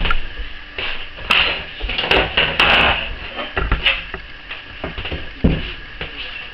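Irregular knocks, clicks and a short scrape as laminate floor planks and hand tools are handled.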